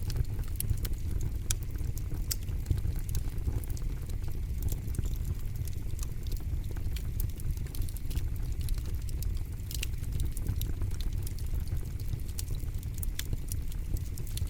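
Campfire crackling: irregular sharp pops and snaps over a steady low rumble of burning flames.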